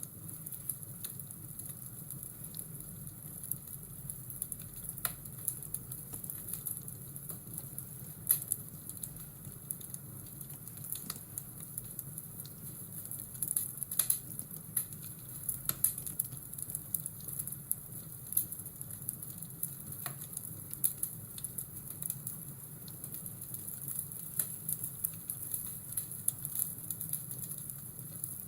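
Fireplace ambience: wood fire crackling, with irregular sharp pops and snaps over a steady low rumble and hiss.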